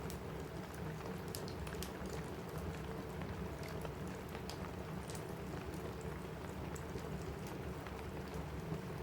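Steady rain on a roof, an even hiss, with scattered sharp crackles from a wood fire in a fireplace.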